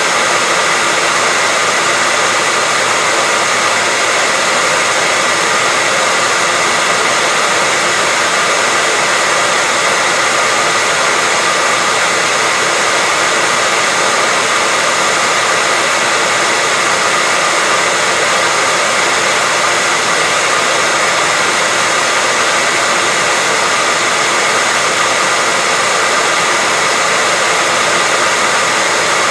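Hairdryer running steadily: a loud, even rush of air with a faint steady whine in it, holding level throughout.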